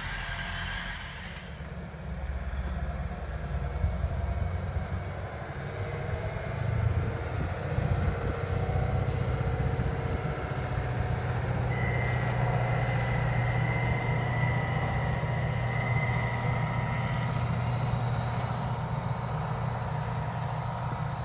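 Distant passenger train running along the line, heard through wind rumbling on the microphone. A steady high whistle sounds for about five seconds around the middle.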